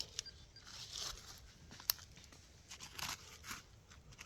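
Digging in wet soil: scattered short crunching and scraping noises, with one sharp click about two seconds in.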